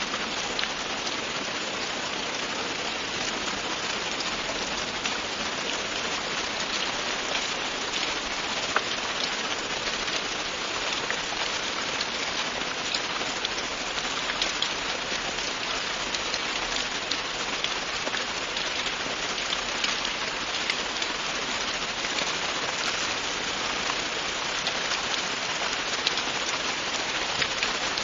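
Steady, even rainfall with many individual drops ticking on a surface.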